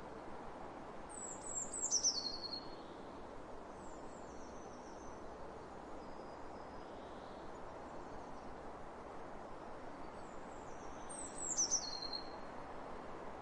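A songbird singing twice, about two seconds in and again near the end, each a quick descending run of high notes, with fainter high calls between. Underneath, a steady hiss of wind across open fields.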